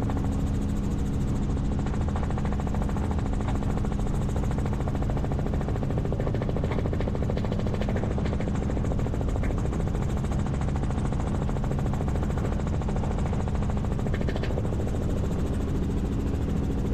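Helicopter cabin noise heard from inside the aircraft in flight: a steady engine and rotor drone with a constant low hum and the rapid, even beat of the rotor blades.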